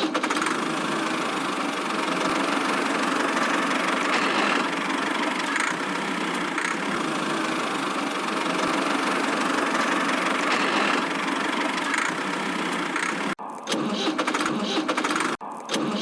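A small engine or motor runs steadily, then cuts off abruptly about thirteen seconds in. It is followed by short, choppy stretches of the same running noise with brief gaps.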